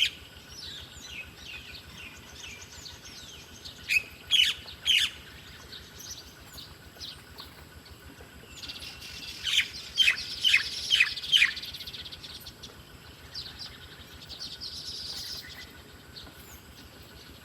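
Wild birds chirping: repeated short, sharp, falling chirps over softer background chirping. There are three loud chirps about four seconds in and a run of about five loud chirps around ten seconds in.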